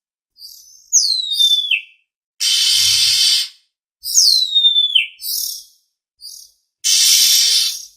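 Oriental magpie-robin (kacer) lure call: harsh rasping notes about a second long alternate with a clear whistle that slides down in pitch, each followed by a few short chirps. The phrase repeats twice, as in a looped lure recording.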